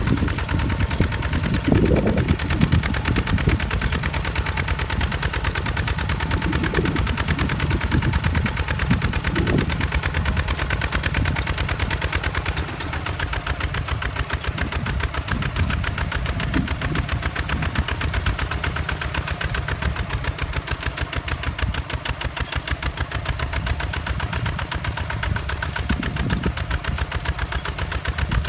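Walk-behind tractor's single-cylinder diesel engine running steadily with a rapid, even firing beat, a little quieter from just under halfway through.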